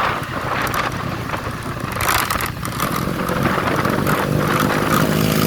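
Wind rushing over the microphone on a moving motorcycle, with its engine running under it; about three seconds in, a steady engine hum comes up clearly.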